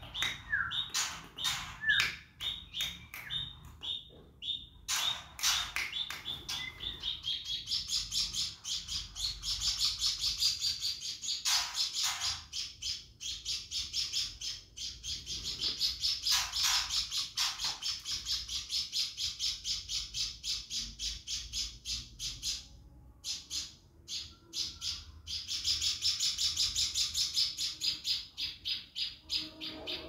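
Small caged songbird chirping in long runs of rapid high notes, many a second, broken by short pauses, with a few louder sharp calls among them.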